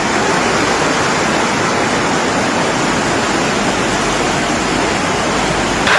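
Steady, loud rush of fast-flowing water, like a flood torrent.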